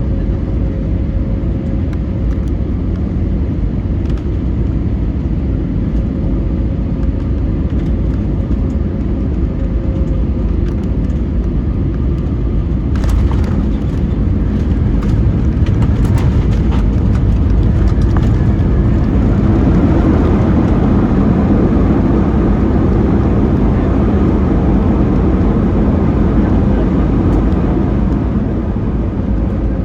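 Cabin noise inside an Airbus A320neo with CFM LEAP-1A engines, heard from a rear window seat. About 13 seconds in there is a short cluster of knocks and rattles, the touchdown on the runway. From about 18 seconds the engine noise rises and holds for some ten seconds as reverse thrust and braking slow the rollout, then eases near the end.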